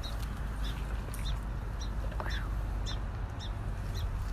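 A small bird chirping repeatedly, short high chirps every half second or so, with one lower falling call about two seconds in, over steady low background noise.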